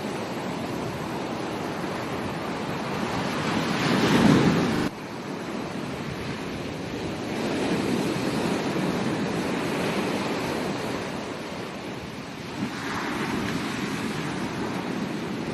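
Ocean surf washing onto a beach, the rush rising and falling in swells. The loudest wave builds about four seconds in and cuts off suddenly, followed by gentler swells.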